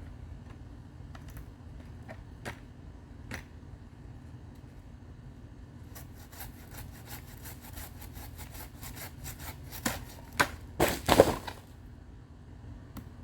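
Pruning handsaw cutting through the thick woody stalk of a bird of paradise plant: scattered clicks, then fast rapid strokes from about six seconds in. The loudest sound is a cracking, splintering burst about eleven seconds in, as the cut stalk gives way.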